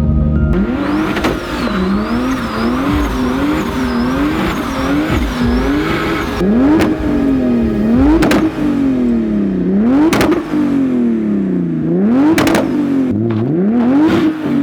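Turbocharged BMW E30 engine being revved over and over, its note rising and falling in pitch. It gives quick blips first, then longer pulls, with a sharp pop at the top of several revs.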